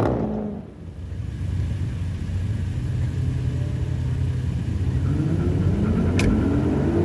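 Car engine at a car meet: a rev falls away at the start and the engine settles to a low, steady idle. About five seconds in it revs up again, the pitch climbing, with a brief sharp high sound near the end.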